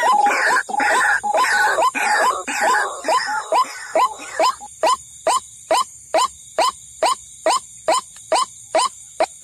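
White-breasted waterhen calling: a steady run of short, quickly rising notes, a little over two a second. In the first few seconds other overlapping calls make it a dense chorus, which thins to the single repeated note.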